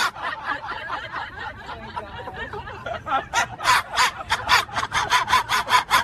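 Laughter after a joke: quiet at first, then from about halfway through a rapid run of ha-ha pulses, about five a second.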